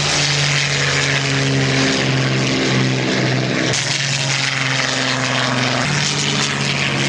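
Several Spitfire fighters' V12 piston engines running at high power as they climb away after take-off. The drone shifts in pitch about four seconds in and again near six seconds.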